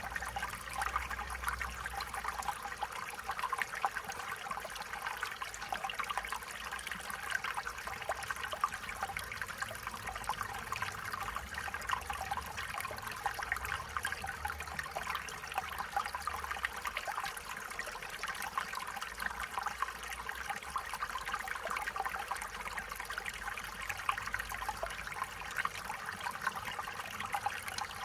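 Stream water trickling and babbling over stones, a steady bubbling flow without change.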